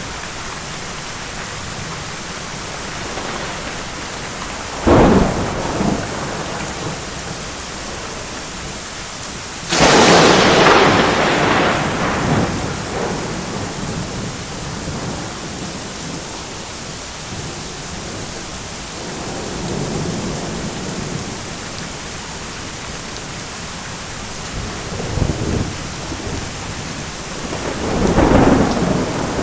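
Thunderstorm: steady rain with thunder. A sharp crack comes about five seconds in, and a louder clap about ten seconds in rumbles away over a few seconds. A rolling rumble swells near the end.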